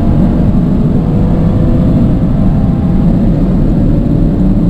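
Car engine under hard acceleration at high speed, one continuous loud sound whose pitch rises slowly.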